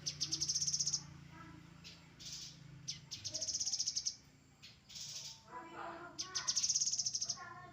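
Grey-headed canary-flycatcher singing: three high, rapid trills, each just under a second long, near the start, in the middle and near the end, with shorter lower notes between them.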